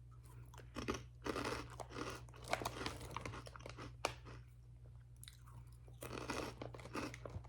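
Crunchy baked shrimp chips (Calbee) being chewed close to the microphone, in irregular crunches that ease off for a moment partway through.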